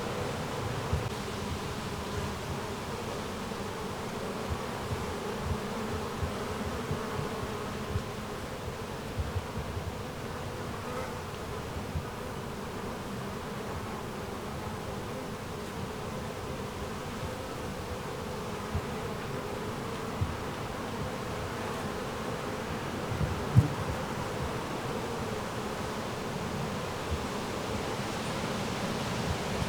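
Steady buzzing hum of insects, with irregular low thumps of wind buffeting the microphone.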